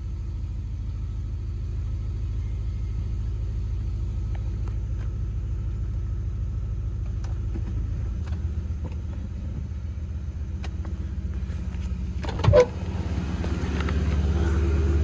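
Infiniti Q45's VH41DE V8 idling with a steady low rumble; its note steps up slightly about eight seconds in. The idle is still rough on the cold engine, which the owner puts down to it being cold. A brief louder sound comes about twelve seconds in.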